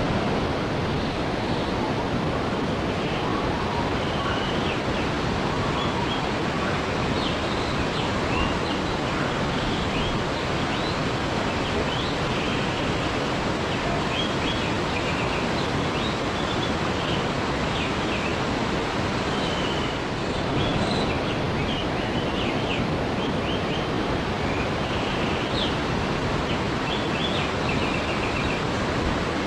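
Waterfall rushing steadily, with many short high chirps scattered over it.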